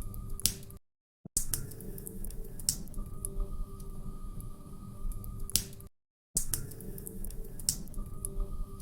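Log fire crackling: irregular sharp pops and snaps over a low steady rumble, broken by two brief drops to silence, about a second in and about six seconds in.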